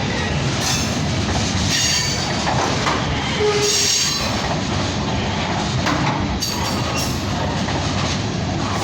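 CN freight train's cars rolling past with a steady, loud rumble of steel wheels on the rails. The wheels give brief high squeals a few times.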